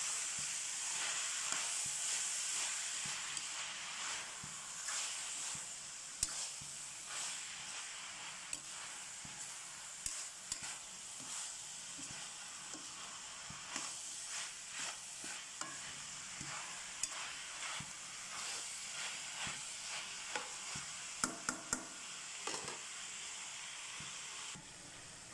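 Ground beef mixture sizzling as it fries in a stainless steel pan, with a metal spoon scraping and clinking against the pan as it is stirred. The sizzle is strongest in the first few seconds and then eases off, and a quick run of clinks comes near the end.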